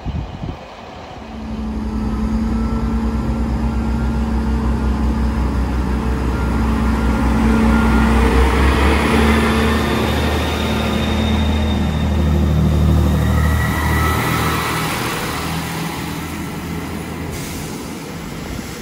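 A diesel train passes close by. Its engine drone starts about a second in, is loudest around the middle and fades toward the end, with thin high squealing tones above it.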